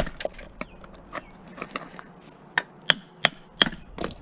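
Hammer tapping on metal while a part is driven into the juicer motor. The sharp strikes come at uneven intervals: the hardest one right at the start, lighter taps through the middle, and four firm blows about a third of a second apart near the end, some with a brief metallic ring.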